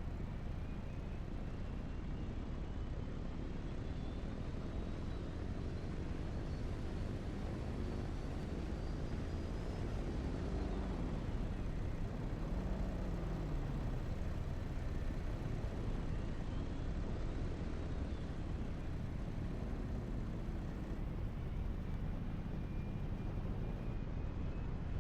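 Steady low rumble of a vehicle running, with faint thin whistling tones that slowly rise and fall in pitch.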